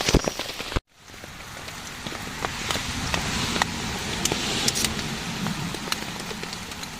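Heavy rain falling on a tent, heard from inside, a steady hiss with scattered sharper ticks of drops. The sound drops out for an instant about a second in, then fades back up.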